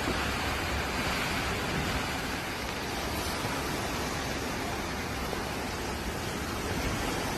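Typhoon wind and rain making a steady, even rush of noise, with low wind rumble buffeting the microphone.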